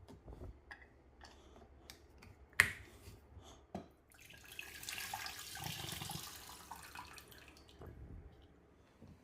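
A few small clicks and knocks, one of them sharp about two and a half seconds in, then water running for about three seconds from a little after four seconds in.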